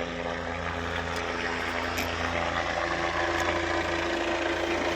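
Helicopter running steadily, its engine and rotors making a continuous even drone.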